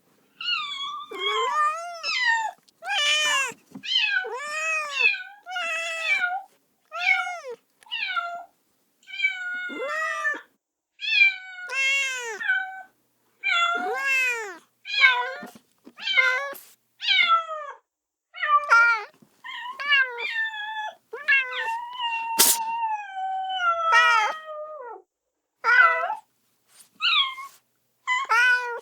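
Kitten meowing over and over, about one high-pitched call a second, each call rising then falling in pitch: a kitten crying and calling for its mother. One drawn-out, falling call comes about two-thirds of the way in, with a single sharp click in the middle of it.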